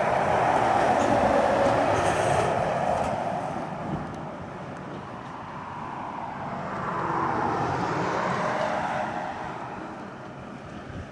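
Heavy diesel trucks pulling hard up a steep climb, engines working under load. One passes loudly in the first few seconds and fades, and a second swells past around seven to nine seconds in before fading.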